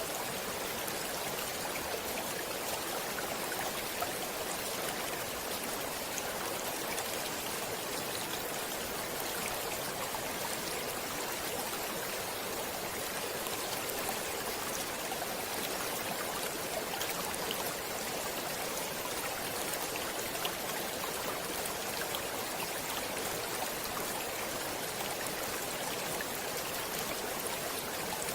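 Stream water flowing steadily, an even rushing hiss with small splashes and trickles scattered through it.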